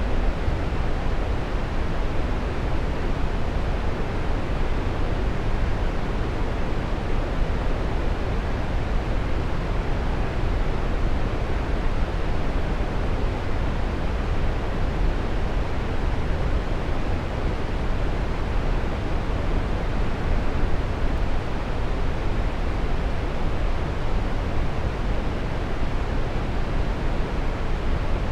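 Waterfall: a steady, even rush of falling water, deep and full in the low end, with no breaks or changes.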